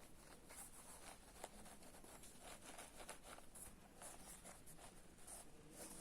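Faint rustling and light clicks of sneakers and their packaging being handled.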